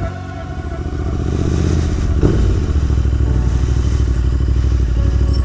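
Royal Enfield Interceptor 650's parallel-twin engine running at a steady idle, its even pulsing growing louder over the first few seconds, with a single knock about two seconds in.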